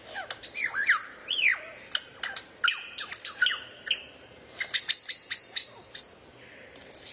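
Songbird singing: a string of sharp chirps and down-slurred whistles, then a quick run of high, sharp notes about four and a half seconds in.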